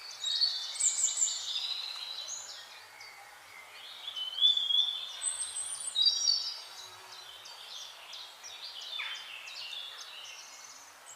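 Songbirds chirping and calling, with several overlapping short whistled phrases. The calls are loudest about half a second in, then again around four and a half and six seconds, over a faint steady hiss.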